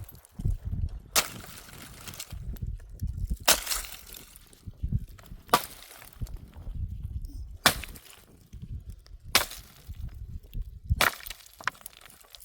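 Dry firewood cracking as it is broken up: six sharp cracks, about one every two seconds, with duller rustling and handling sounds between them.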